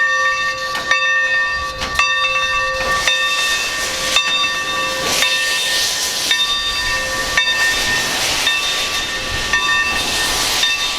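Steam locomotive's bell ringing at an even pace of about one stroke a second, with steam hissing from the locomotive that swells after the first few seconds.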